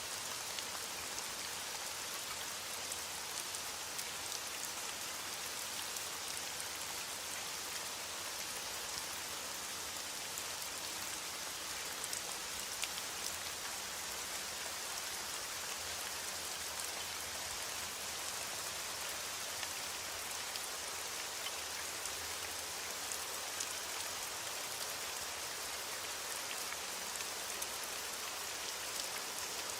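Steady rain falling, with scattered small ticks of individual drops hitting a surface. There is no thunder.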